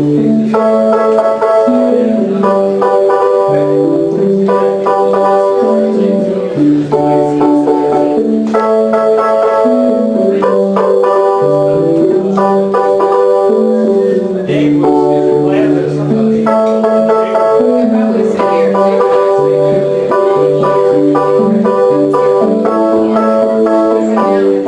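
Keyboard synthesizer playing an instrumental piece live: a stepping bass line under plucked-sounding chords, the phrase repeating about every eight seconds.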